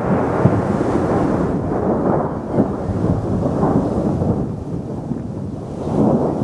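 Strong gusty wind buffeting the camera microphone: a loud, low, rumbling noise that swells and eases.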